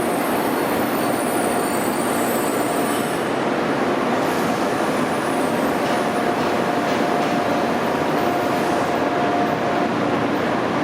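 Freight train hauled by the ED76 electric locomotive rolling steadily through the station, with a faint high wheel squeal near the start.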